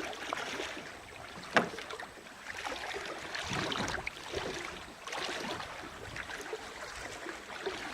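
Kayak paddling on calm sea water: irregular paddle splashes and water against the hull, with one sharp knock about one and a half seconds in.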